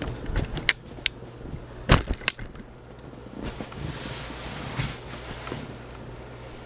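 Tatung Hugger ceiling fan running with a steady low motor hum, under a few sharp knocks and clicks in the first two seconds and a soft rushing hiss about midway.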